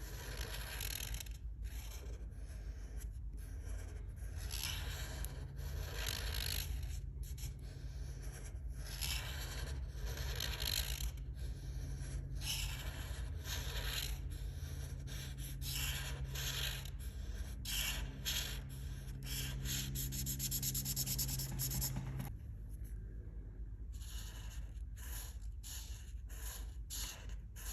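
A colouring tool rubbing back and forth on paper in repeated strokes of about a second each, with a run of quick, short scribbling strokes about two-thirds of the way through.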